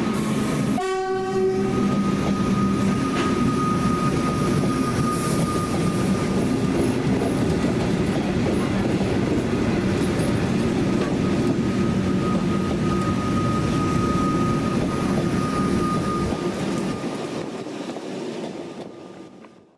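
Metro Trains' inspection train sounds a short horn blast about a second in, then runs past with the steady rumble and clatter of wheels on rail and a thin, high whine. The noise fades away near the end.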